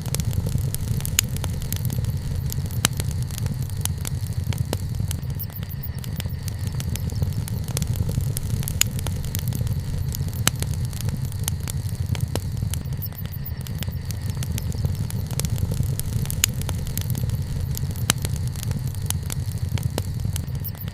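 Wood bonfire crackling, with frequent irregular sharp pops over a steady low rumble.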